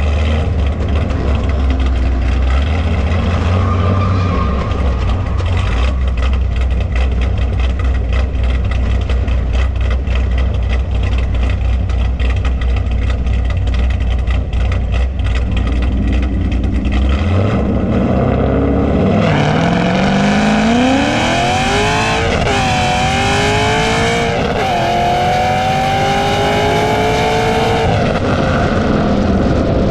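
Muscle-car V8 engines rumbling at idle, then a bit past halfway a car launches and accelerates hard down the drag strip. Its pitch climbs steeply, drops twice at gear shifts, and fades near the end.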